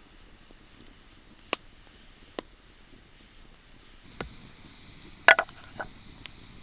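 Campfire popping: a handful of sharp, irregular cracks over a faint steady background, the loudest a quick double crack about five seconds in.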